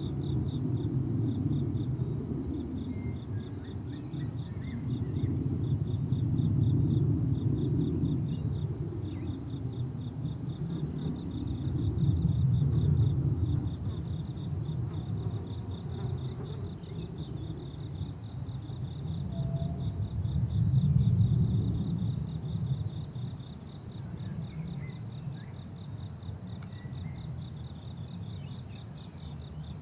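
Crickets chirping without pause in rapid, high, even pulses. Beneath them runs a low rumble that swells and fades every several seconds.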